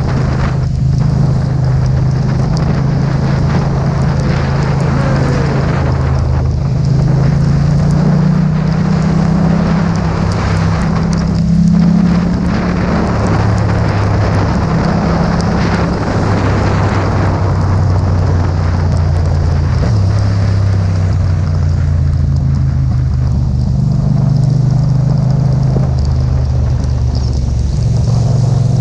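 Yamaha MT-07 parallel-twin engine running under way, its engine speed rising and falling several times, over a steady hiss of rain, wet-road spray and wind.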